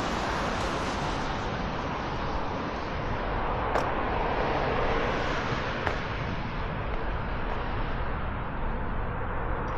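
Steady road traffic on a wide city boulevard, a continuous rush of passing cars, with two short clicks partway through.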